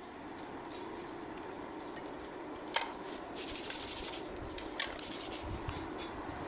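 Metal scraping and rubbing during workshop work, with a sharp click a little under halfway through and two short stretches of high scraping, over a steady low background noise.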